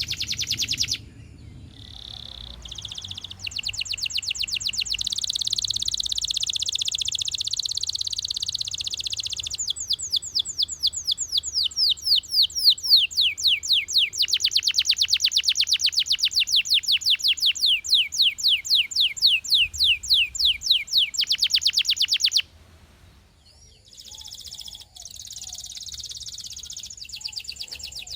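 Canary singing: buzzy rolling trills, then long runs of rapid repeated down-slurred notes at about four a second, with a brief pause a little past two-thirds of the way through before the song resumes.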